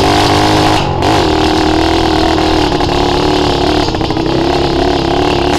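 Small off-road motorbike engine running hard at fairly steady high revs, the pitch dipping briefly about a second in and then picking up again.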